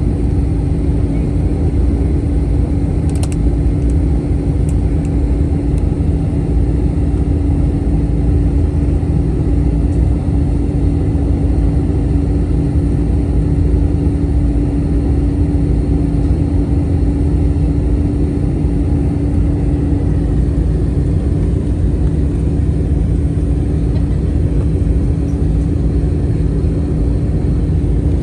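Airliner engine and airflow noise heard from inside the passenger cabin on the landing approach: a steady low rumble with a constant hum, and one brief click about three seconds in.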